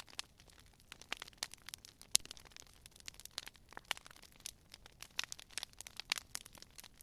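Wood fire crackling: a steady stream of irregular pops and snaps, with a sharper crack about two seconds in.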